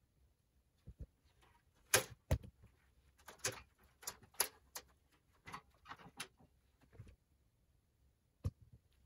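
Irregular sharp clicks and knocks of small hard objects being handled, a dozen or so, the loudest about two seconds in.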